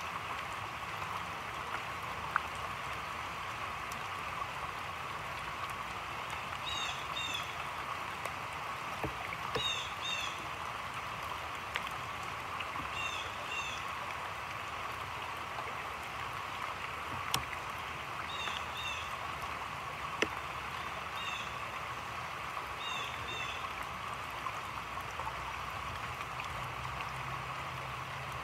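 Heavy rain falling on a creek: a steady hiss of drops on the water surface, with a few sharper drips close by. A bird calls in short doubled chirps about six times through the middle.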